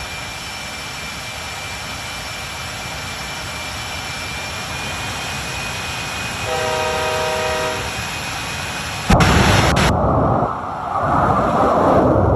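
Steady running and road noise of a truck, with a horn chord sounding for just over a second about halfway through, then a sudden loud rush of noise near the end.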